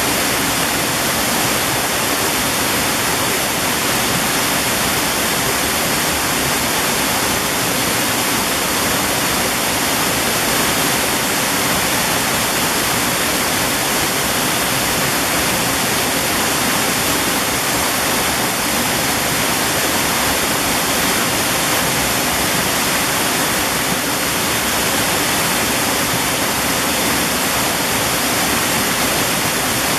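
Mountain-valley stream rushing steadily over rocks, a continuous loud water noise with no breaks.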